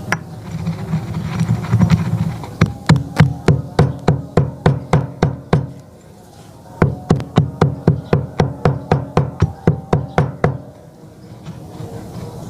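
Chalk being crushed with quick, even blows, about three knocks a second, in two runs with a short pause between them, over background music.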